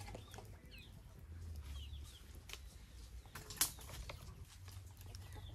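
Quiet outdoor ambience: a few short, high bird chirps scattered through, and one sharp click a little past halfway, over a faint low rumble.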